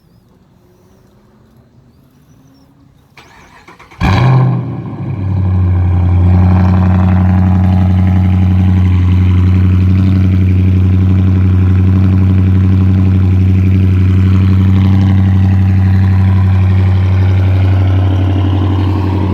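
A 2016 Dodge Charger R/T's 5.7-litre Hemi V8 cold-starting through a straight-piped exhaust, with mufflers and resonators removed and the catalytic converters kept. It fires suddenly about four seconds in with a loud flare, then settles into a steady, loud deep idle.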